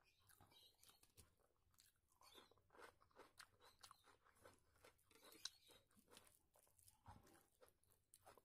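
Faint chewing of a mouthful of rice and curry, with many small, irregular wet clicks, and fingers squishing and mixing rice on a plate.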